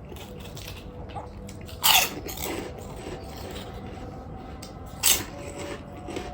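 A person biting and chewing air-fried chicken, with two loud crunchy bites about three seconds apart.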